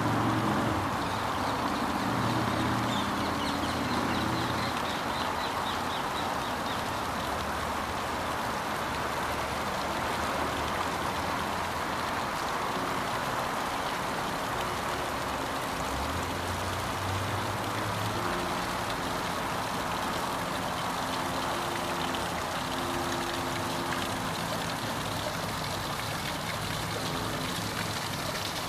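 Water fountain splashing and trickling steadily, with the hum of passing road traffic underneath.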